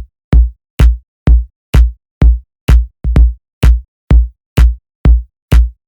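Electronic dance track's kick drum playing on its own, a steady four-on-the-floor beat of about two beats a second with a quick double hit about three seconds in.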